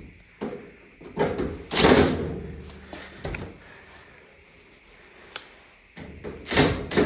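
Dryer cabinet parts being handled and fitted back together: a run of clunks and scraping rattles, the loudest about two seconds in, a sharp click in the middle, and another cluster of clunks near the end.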